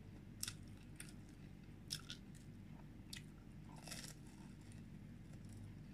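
Faint close-up bites and chewing of sugar-coated shakoy (twisted fried dough), with a handful of short, crisp crunches at irregular intervals.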